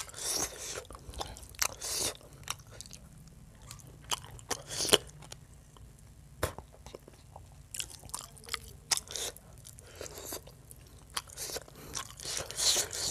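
A man eating chicken curry and rice by hand: chewing with irregular wet mouth smacks and clicks, loudest near the start and again near the end.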